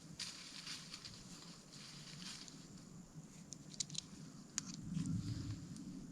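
Soft rustling with a few sharp clicks just past the middle, the handling noise of a hunter shifting gear and clothing in a tree stand; a low rumble comes in near the end.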